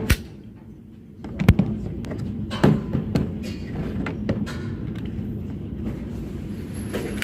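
Shooting-range background: a steady low rumble broken by a few sharp cracks like distant gunshots, the loudest about a second and a half in and another about a second after it.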